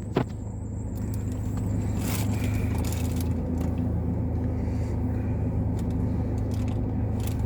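Car engine running at a standstill, heard from inside the cabin as a steady low rumble, with a single click just after the start.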